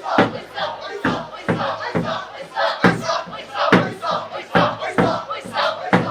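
A crowd of people shouting together in a steady rhythm, with sharp cracks about every half second.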